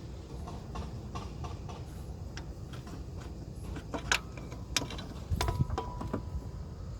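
Hand tools clicking and clinking against metal parts during engine-bay work: scattered light clicks, two sharp metallic clinks a little past the middle, then a short run of clinks with a brief ringing tone.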